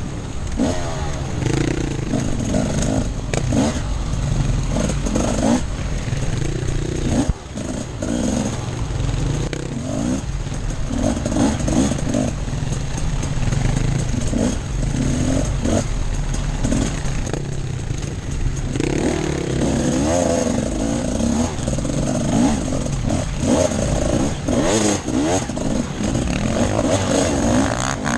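Off-road dirt bike engine revving up and down continually as it is ridden, its pitch rising and falling with the throttle, with occasional knocks and rattles, one sharp knock a few seconds in.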